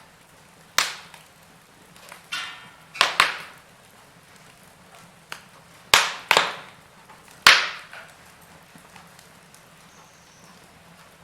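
Wood fire with burning logs crackling: about eight sharp pops and snaps at irregular intervals, the loudest near the middle and about two-thirds of the way through, over a faint steady background.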